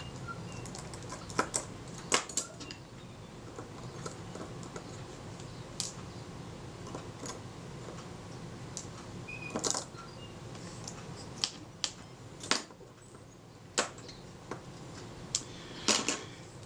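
Scattered small metallic clicks and taps of hand tools and tiny parts while a Synchro-Compur leaf shutter is unscrewed and taken apart, over a low steady hum.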